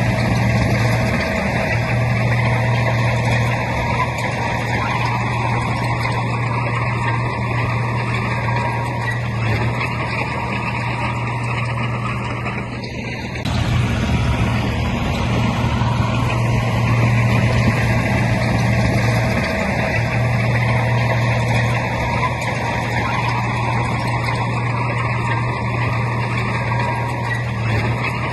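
Heavy diesel earthmoving machinery running steadily, a deep engine drone with a short dip in level about halfway through.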